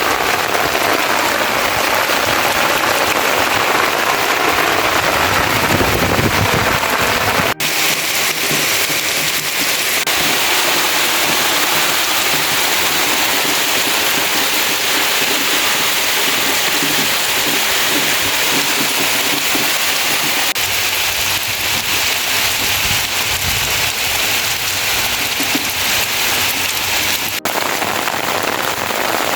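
Heavy rain falling steadily. It is fuller and deeper at first, then cuts abruptly about a quarter of the way in to a thinner, hissier downpour, with another brief cut near the end.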